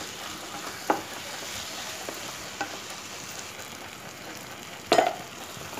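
Chopped vegetable masala sizzling in a non-stick kadai while being stirred with a spatula, with a few knocks of the spatula against the pan, the loudest about five seconds in.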